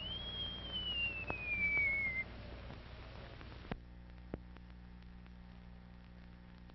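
A high, thin whistling tone slides slowly downward for about two seconds over a fainter lower tone. The soundtrack then cuts off sharply, leaving old-film hiss and hum with a few crackles.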